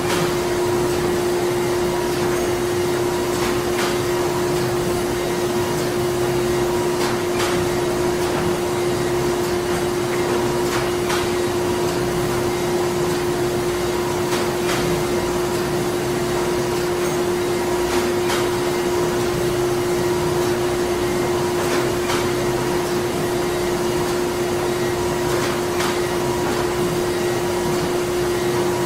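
Printing-plant machinery running: a steady mechanical hum with one constant tone through it, and a faint click about every three and a half seconds.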